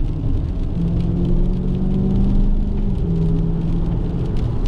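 Dodge Challenger Scat Pack's 392 HEMI V8 droning steadily under way, heard from inside the cabin with tyre and road rumble. The engine note drops slightly in pitch about three seconds in.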